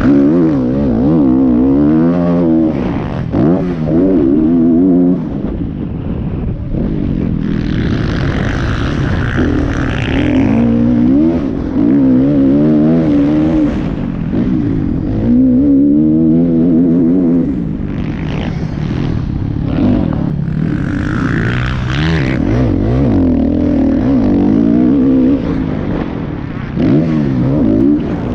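Motocross bike engines racing, revving up and dropping back over and over as the riders work the throttle and shift, with a rushing noise twice.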